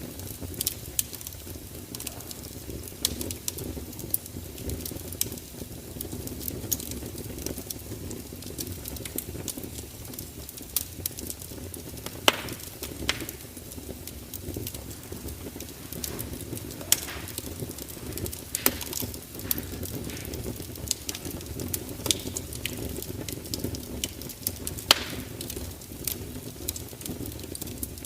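Fire crackling: frequent irregular sharp pops and snaps over a steady low rumble, with a few louder pops scattered through.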